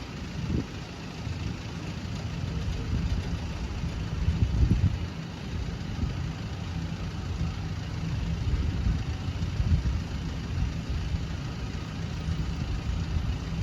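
Road vehicle engines idling, a steady low rumble with a few louder swells.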